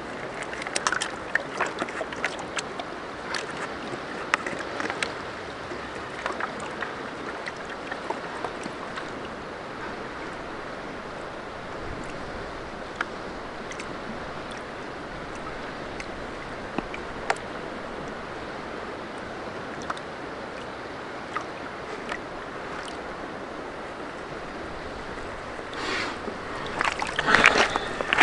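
Gold pan being worked in stream water: water sloshing and splashing, with scattered sharp clicks of gravel and stones against the pan. A louder burst of splashing and rattling near the end.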